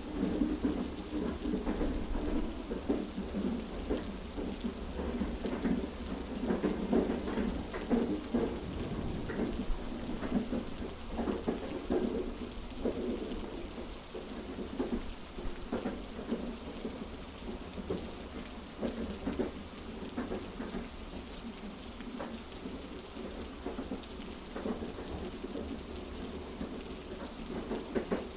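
Heavy rain pattering over a steady low rumble, a train-carriage and rain ambience mix.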